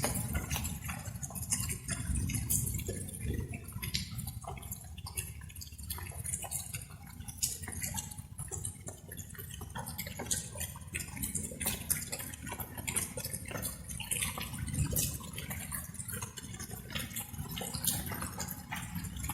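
Light rain: water drops falling and dripping in an irregular patter, over a steady low background noise.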